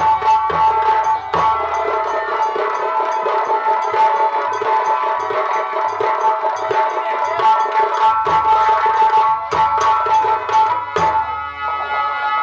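Nautanki folk-theatre instrumental music: rapid hand-drum strikes under a held, sustained melody line. The drumming thins out near the end.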